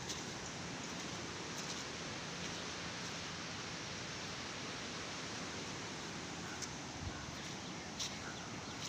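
River water roaring steadily, an even rushing hiss, with a few faint clicks now and then.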